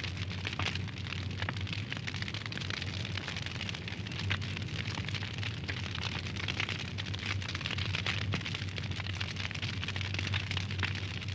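Wood fire crackling: a dense, irregular run of small sharp pops and snaps over a steady hiss, with a steady low hum underneath.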